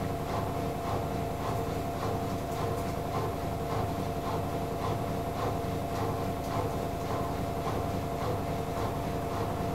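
AEG Lavamat L88489FL front-loading washing machine running, with a steady motor hum and light regular knocks from the turning drum about twice a second.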